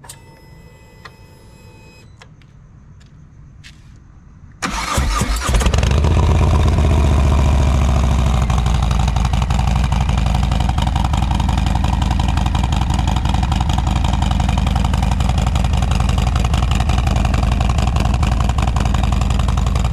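Harley-Davidson motorcycle's V-twin engine starting about four and a half seconds in and then idling steadily. It follows a faint electronic tone of about two seconds at the start.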